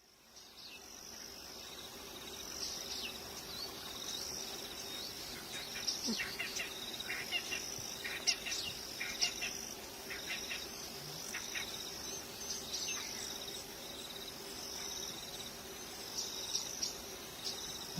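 Natural ambience of insects trilling steadily with many birds chirping over them, fading in over the first couple of seconds; the chirping is busiest in the middle.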